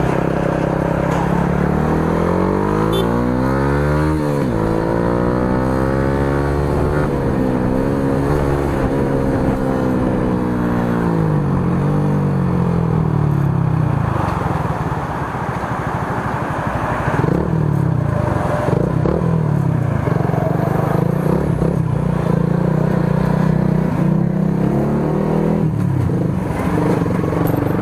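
Motorcycle engine revving through an aftermarket muffler with its silencer insert fitted. The pitch climbs to a peak about four seconds in and falls back, with further shorter revs later. It stays loud.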